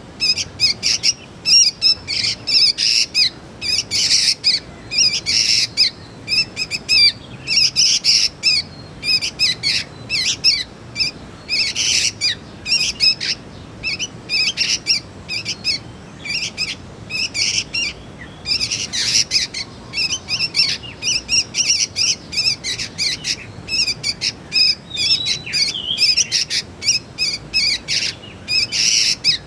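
Young sooty-headed bulbuls (kutilang) calling: a dense, continuous run of short, high chirps and squawks, in quick clusters with brief gaps.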